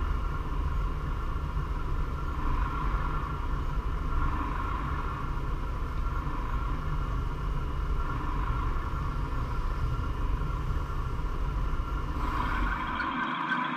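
G-scale model train running on its track, making a steady low rumble of wheels and motor that stops suddenly shortly before the end.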